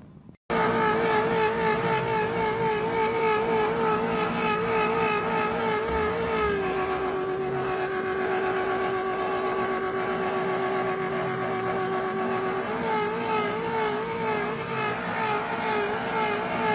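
Vehicle engine running at steady, fairly high revs with a wavering pitch; about six seconds in the pitch drops and holds steady, then rises again near the end.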